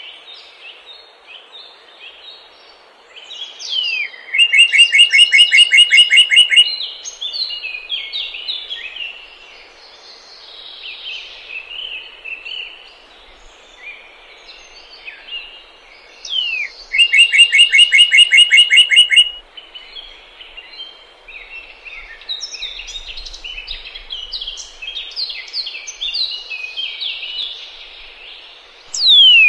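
Many birds chirping and chattering together, with two loud rapid trills of about two and a half seconds, about four seconds in and again about seventeen seconds in, each opened by a short falling note. A sharply falling whistle comes at the very end.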